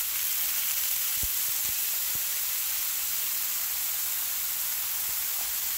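Drained canned French-style green beans and chicken thighs sizzling on a hot oiled flat-top griddle: a steady frying hiss.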